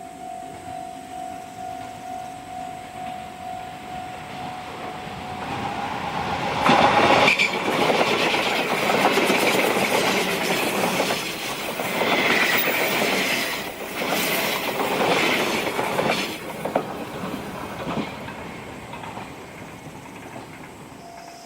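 Electric train passing at speed: the noise swells about six seconds in, the wheels clatter rapidly over the rail joints with brief squeals, and it fades out after about seventeen seconds.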